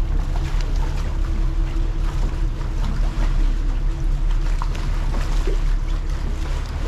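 Catamaran under way: a steady low engine drone with a hiss of wind and water over it.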